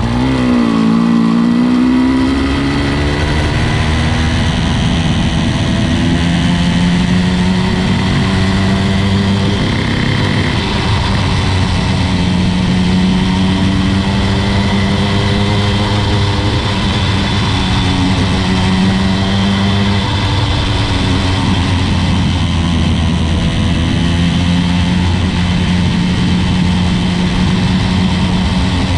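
The small 80cc two-stroke engine of a motorized bicycle running under way. Its pitch drops over the first second or two, then holds fairly steady with slight rises and falls.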